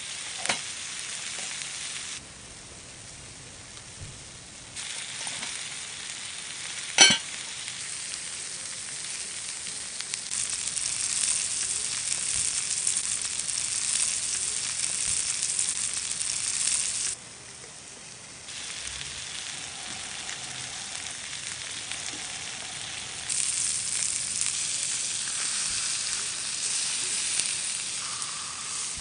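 Meat searing on a hot iron griddle: a steady sizzle that drops and rises in level abruptly several times, with a sharp click about seven seconds in.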